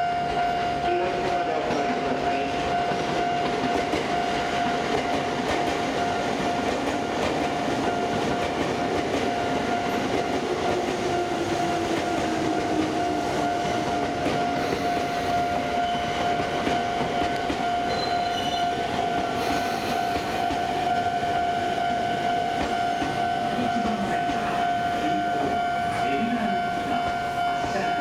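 Sotetsu 9000 series electric train running into the station and slowing to a stop, with a steady high-pitched tone sounding throughout.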